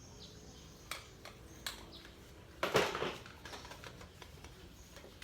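Metal clicks and a scraping crunch as a stainless-steel scouring pad is stuffed into a racing motorcycle exhaust's tailpipe to quiet it: a few sharp clicks about a second in, then one louder scrape just before the middle.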